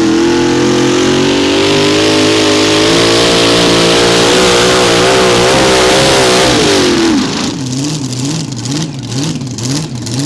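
Modified mini pulling tractor's 575-cubic-inch engine at full throttle on a pull, its pitch climbing slowly and then wobbling. About seven seconds in the throttle is cut and the engine falls to a lower, wavering, quieter run: the tractor has run into trouble off the start line.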